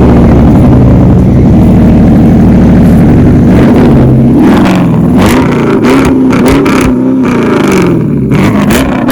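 2016 Dodge Charger R/T's 5.7-litre Hemi V8 exhaust, loud and steady for about three seconds. Then the revs drop and climb again several times, with sharp cracks mixed in.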